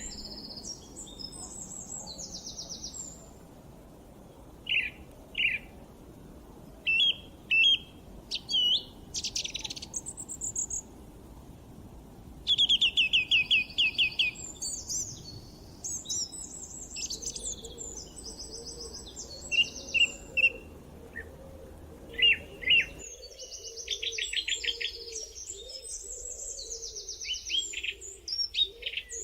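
Several wild birds singing and chirping, with quick high whistles and rapid trills overlapping one another, over a steady low hiss that cuts out suddenly about 23 seconds in.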